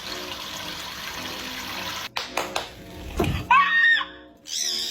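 Water running steadily, like a tap, for about two seconds, then cut off abruptly. This is followed by a low thump and two short, bending squawk-like calls near the end, over background music.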